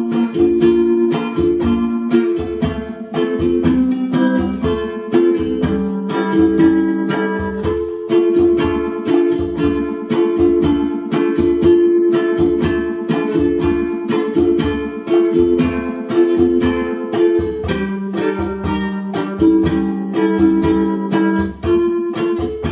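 Ukulele strummed in a steady rhythm, playing a slow tune with chord changes every few seconds.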